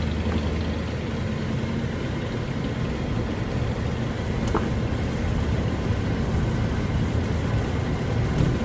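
Car engine running steadily with road noise, heard from inside the moving car.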